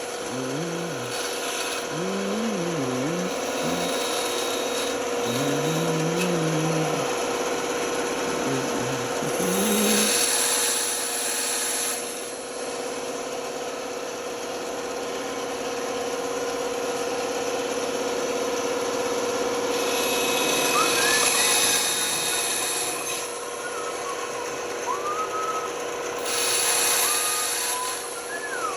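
Band saw running with a steady hum while its blade cuts through wood, the cutting noise swelling several times as the piece is fed through.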